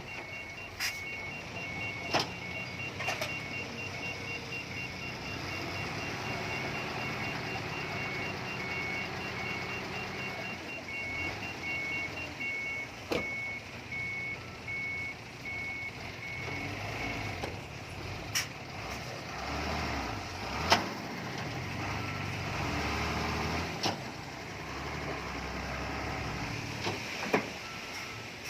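Heavy earthmoving machinery running at a landfill site, with backup alarms beeping steadily; two alarms at slightly different pitches sound together, and both stop around the middle. The engine rumble rises and falls, and several sharp metallic clanks come through, the loudest about three quarters of the way in.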